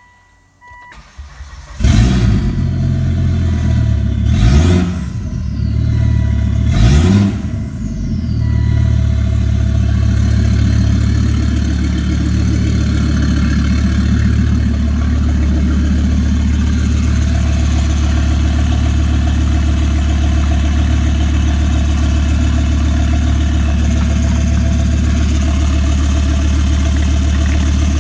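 Volvo V70's B5204T5 2.0-litre turbocharged five-cylinder petrol engine starting about two seconds in. It is revved twice, the pitch rising and falling each time, then settles into a steady idle.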